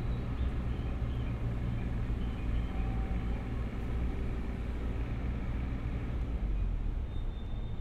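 JR East FV-E991 'HYBARI' hydrogen fuel-cell hybrid test train approaching slowly on its electric motors, with a steady low rumble.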